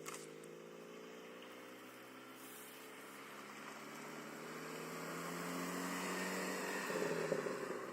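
1990 Honda Civic EF's D16A6 four-cylinder engine through its stock exhaust, the revs climbing slowly and steadily so the note rises in pitch and grows louder, peaking about seven seconds in and then dropping away.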